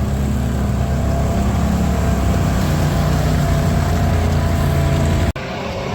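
Four-wheeler engine running steadily under way, with a sudden break about five seconds in, after which the sound changes.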